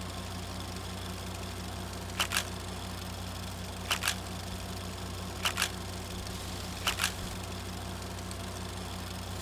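Sharp double clicks, one pair about every one and a half seconds, over a steady low hum.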